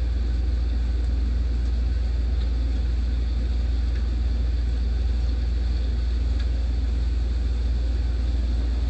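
Steady downpour of thunderstorm rain under a constant low rumble, with no single claps or drops standing out.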